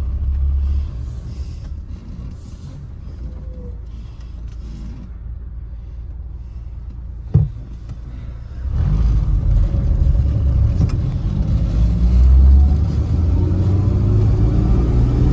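1956 Studebaker Champion's flathead six-cylinder engine running, heard from inside the cabin as the car pulls away in first gear. It is fairly quiet for the first several seconds, with one sharp knock about seven seconds in, then gets louder from about nine seconds on as the engine picks up and accelerates, its pitch rising.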